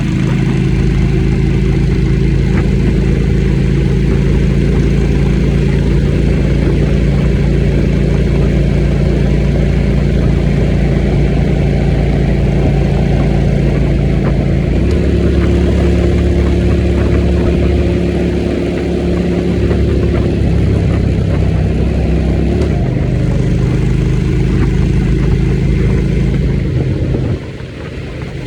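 Motorcycle engine running steadily while riding, its note shifting to a different steady pitch about halfway through and again a few seconds later; the sound dips briefly near the end.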